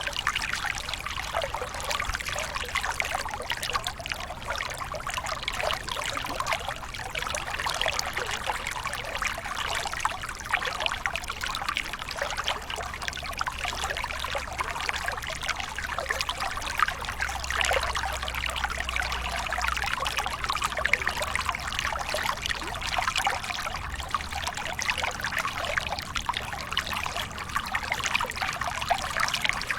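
Waterfall: water pouring and splashing steadily in a dense, even rush, with a faint low rumble beneath.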